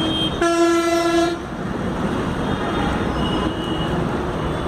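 A vehicle horn sounds once, one steady note held for about a second, over continuous road traffic noise.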